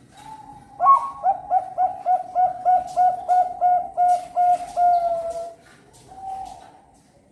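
Perkutut (Bangkok-bred zebra dove) singing: a short coo, then a fast even run of about a dozen coos, about four a second, ending in a longer drawn-out note. One more short coo follows.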